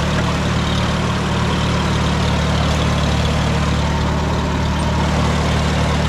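Early Farmall A tractor's four-cylinder gasoline engine running steadily at a low, even speed.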